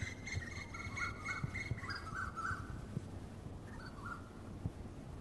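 A bird chirping in a quick run of short repeated notes for about two and a half seconds, then a few fainter notes. Soft knocks and rustles of leaves being handled run underneath.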